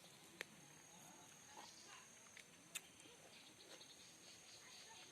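Near silence: faint outdoor ambience with a thin, steady high insect trill and a few brief sharp clicks.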